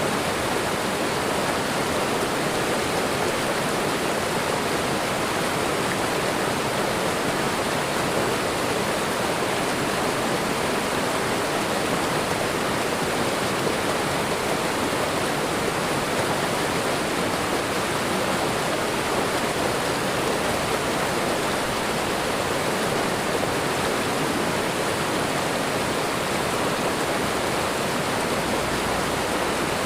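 Waterfall and running water rushing: a steady, even roar of falling water with no change.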